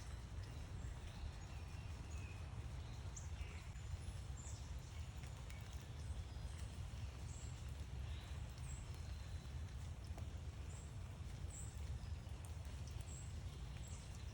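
Backyard birds giving short, high chirps about once a second, over a steady low rumble of outdoor background noise.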